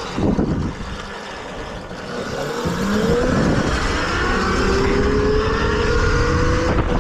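Electric dirt bike's motor whining as it pulls away, rising in pitch and then holding steady as the bike reaches speed, over rumbling wind on the microphone.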